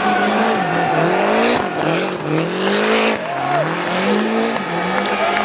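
Rally car engine revved hard, its pitch swinging up and down again and again, with a short high hiss about a second and a half in.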